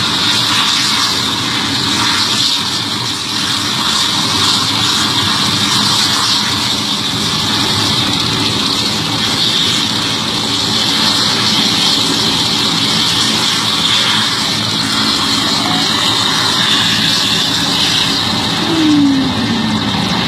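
Mi-17 helicopter's twin turboshaft engines and main rotor running at high power, a steady loud turbine whine over the rotor's beat. A brief falling tone cuts in near the end.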